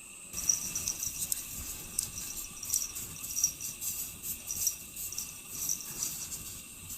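Insects chirping: high, short chirps repeating irregularly, over a faint steady high tone.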